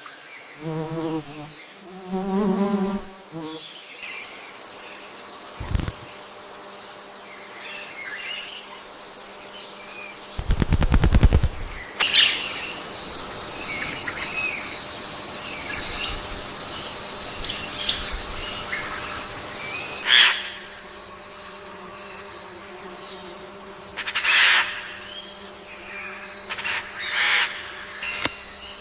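Wild forest ambience: scattered bird chirps and calls over a steady high insect drone, with a loud rapid rattle about eleven seconds in.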